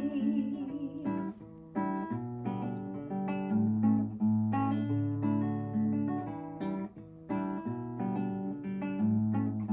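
Acoustic guitar playing an instrumental passage of strummed and picked chords between sung lines of a song, with a brief drop in level a little over a second in and again around seven seconds in.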